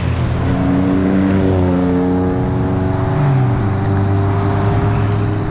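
Chevrolet Nova's engine pulling steadily. Its pitch steps down about half a second in, then briefly rises and falls a little past halfway.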